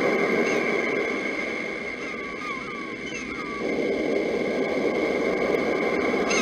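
Steady sea surf with birds calling over it: short chirps repeat about once a second, and a quicker run of them comes in the middle as the surf eases a little. The surf then swells back suddenly about three and a half seconds in.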